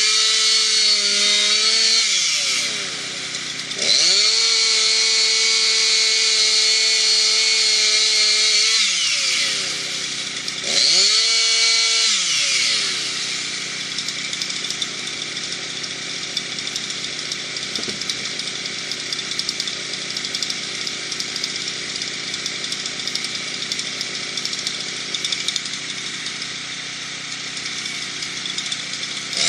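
Chainsaw engine revving high and steady, with the throttle let off twice in the first dozen seconds so the pitch falls away, then running slower and quieter through the second half.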